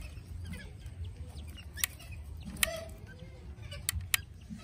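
Faint repeated chirps and calls of birds, over a low rumble, with four sharp clicks between about two and four seconds in.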